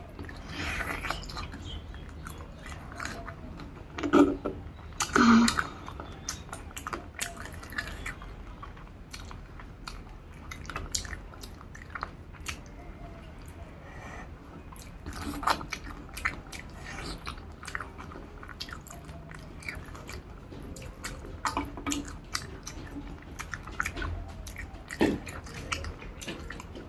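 A person chewing and eating a rice-and-curry meal close to the microphone: steady wet chewing with many small mouth clicks, and a couple of louder moments about four and five seconds in.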